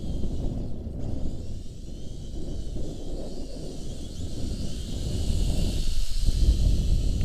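Wind buffeting the microphone with a gusty rumble, over the high, wavering whine of a Syma X5C-1 toy quadcopter's four small motors and propellers. The whine grows louder about five seconds in as the quadcopter labours against the wind.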